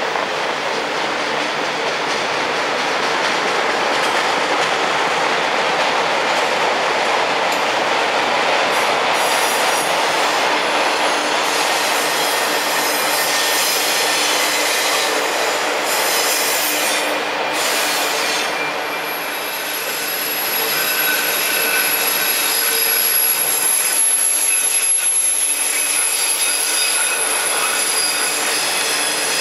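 Freight train cars rolling past, steel wheels running on the rails in a steady loud rumble. About two-thirds of the way through, a thin high-pitched wheel squeal sets in and holds.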